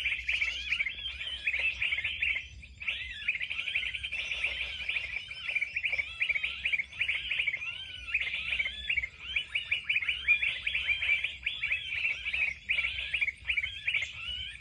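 Gelatik birds chirping rapidly and continuously, many quick calls overlapping, with a brief pause about two and a half seconds in.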